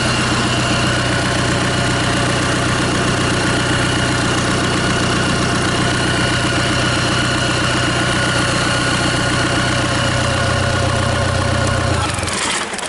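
Kia J3 2.9-litre four-cylinder common-rail diesel engine, out of its vehicle, idling steadily, then switched off near the end and winding down to a stop.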